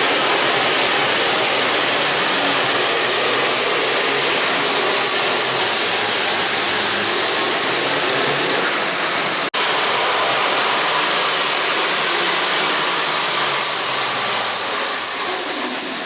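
A pulling tractor's engine running at full throttle down the track, a loud, steady noise filling the arena, broken once by a sudden short dropout about nine and a half seconds in.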